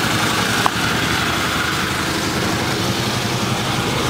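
Small engine running steadily at a constant speed, with a faint tick about two-thirds of a second in.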